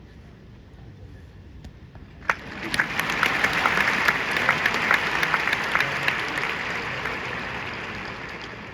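Large audience applauding: the clapping swells suddenly about two seconds in, holds, then slowly fades near the end.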